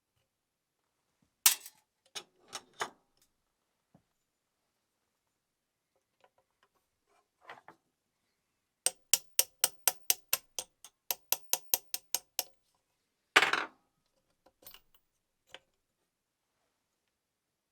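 Sharp metallic clicks and knocks from small sewing-machine parts and tools being handled: a few separate clicks, then a quick, even run of about five clicks a second for several seconds, then one louder knock.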